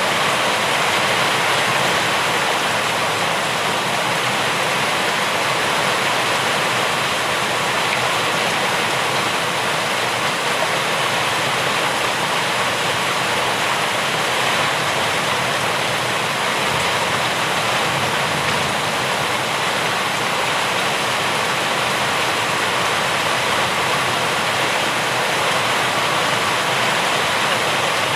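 Steady heavy rain: an even, unbroken rushing hiss with no single drops standing out.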